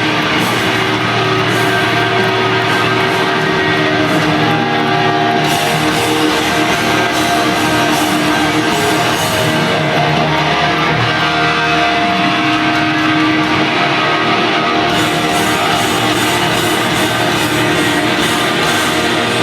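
Hard rock band playing loud live, with electric guitars to the fore.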